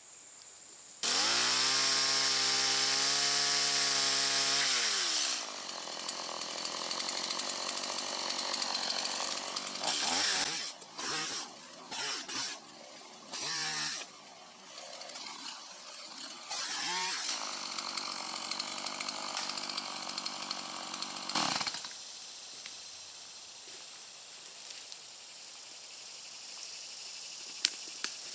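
Chainsaw engine held at full throttle for about four seconds, then dropping back and running lower and unevenly, with a few short revs, until it cuts off about 21 seconds in.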